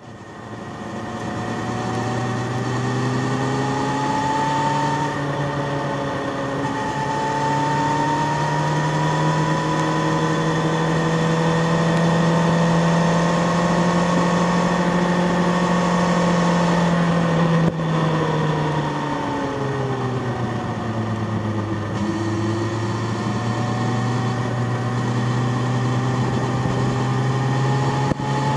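Sport motorcycle engine at track speed, heard from an onboard camera: the pitch climbs under throttle with a brief dip at a gear change about five seconds in, drops suddenly about eighteen seconds in as the rider rolls off and slows, then climbs again as the bike accelerates out.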